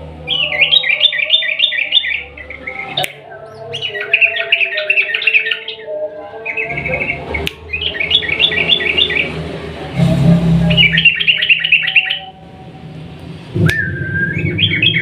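Yellow-vented bulbul (trucukan) singing long, rapid rolling phrases ("ropel panjang"): about five bursts of quick bubbly notes, each lasting about a second, with short pauses between them.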